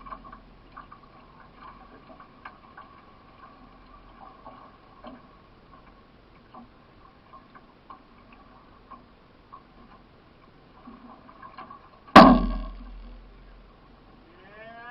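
Racing canoe being paddled, with the paddle stroke and water giving a faint, irregular ticking and knocking. About twelve seconds in, one sudden loud knock that rings briefly before fading.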